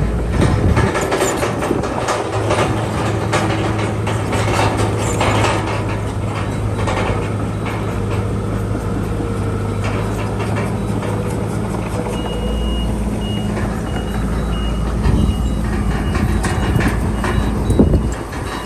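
Heavy diesel earthmoving machinery running steadily under load, with repeated knocks of metal and soil. A reversing alarm sounds a run of short high beeps through the second half.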